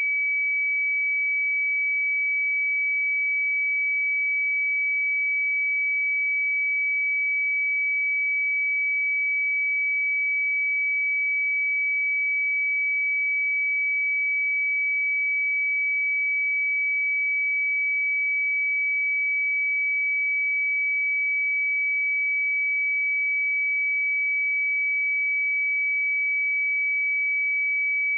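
A pure 2284 Hz sine-wave test tone, held steady at one pitch and level, for checking speakers or headphones.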